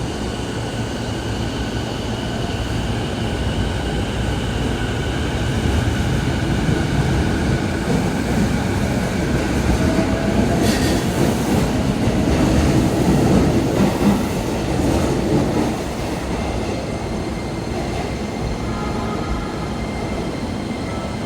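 Electric train running through the station beside the platform: rail and wheel rumble that builds from about five seconds in, is loudest around the middle and falls away about sixteen seconds in.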